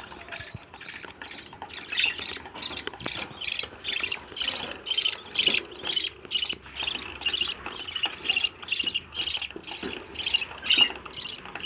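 Budgerigar chick calling over and over in short, shrill calls, about two to three a second.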